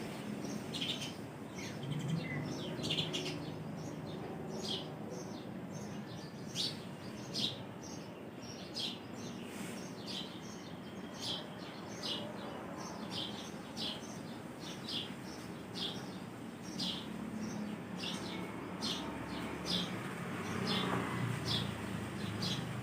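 Small birds chirping: short high chirps repeated about once or twice a second, over a faint, steady background of wind.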